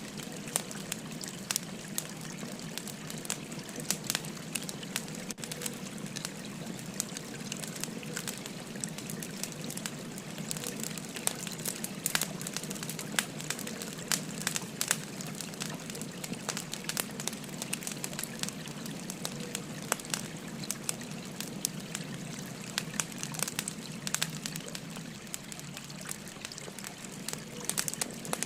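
Wood fire crackling, with frequent sharp pops and snaps, over the steady trickle of a flowing stream.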